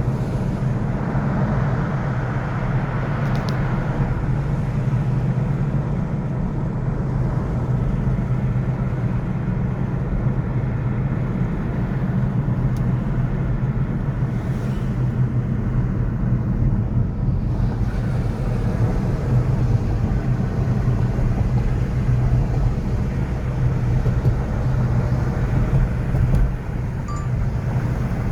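Steady city traffic noise: a continuous low rumble of road vehicles with a constant low drone and no distinct events standing out.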